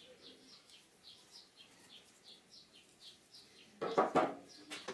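Small birds chirping over and over, a few short chirps a second. About four seconds in, a louder, rough burst of noise cuts in.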